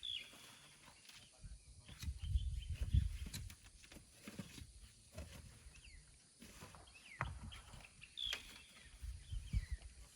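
Short animal calls, high chirps and falling whistles, with bouts of low rumbling thuds in between.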